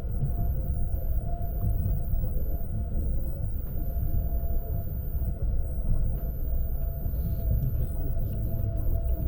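Lastochka electric train running, heard from inside the carriage: a steady low rumble with a constant whine over it.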